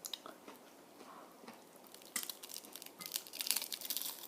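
Someone biting into a taco and chewing it, with faint clicks at first and then a dense run of crisp crunching crackles through the second half.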